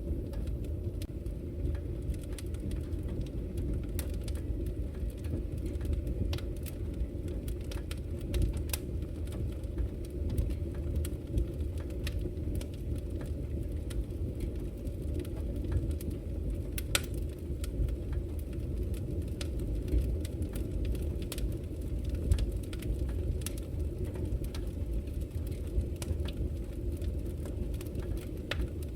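Wood fire burning in a fireplace: a steady low rumble of flames with scattered crackles and sharp pops.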